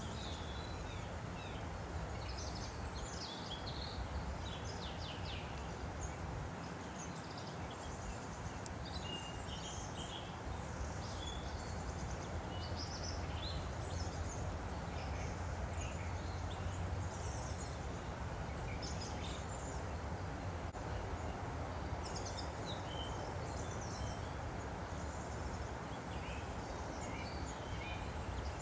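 Woodland stream flowing steadily, with many small birds chirping and trilling throughout.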